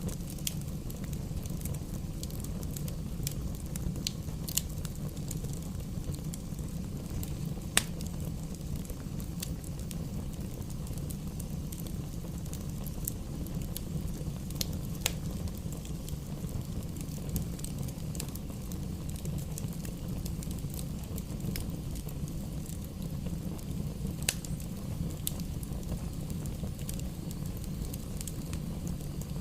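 Fire burning in a fireplace, crackling with scattered irregular pops over a steady low rumble; one sharper pop about eight seconds in.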